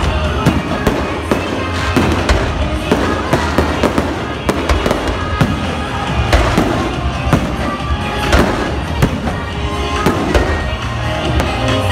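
Fireworks going off in quick succession, several sharp bangs and crackles a second, over loud music with a steady bass.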